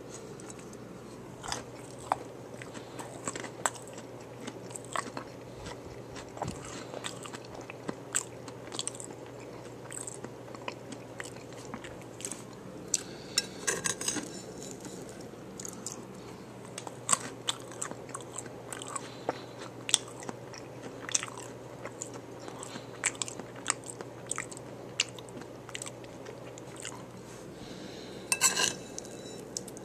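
Close-up chewing and crunching of a hard-shell taco bowl: irregular crisp crunches throughout, with quicker runs of crunching about halfway through and again near the end.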